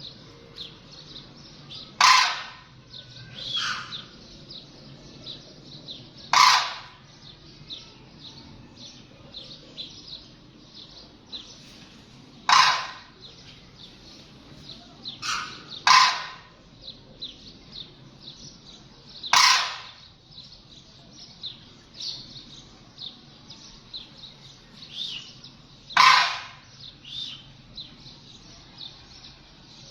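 Birds calling: six loud calls, each about half a second long, come a few seconds apart over a steady background of many small, high chirps.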